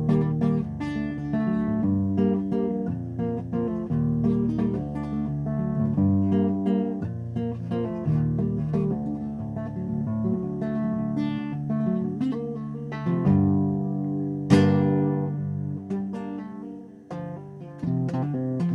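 Instrumental guitar music: a guitar playing a run of picked notes and chords, with one loud strummed chord about fourteen and a half seconds in.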